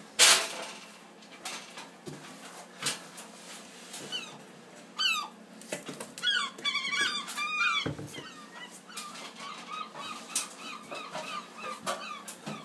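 Seagull squawking: wavering, high cries about five seconds in and again from six to seven and a half seconds, then a string of shorter repeated calls. A sharp knock comes right at the start.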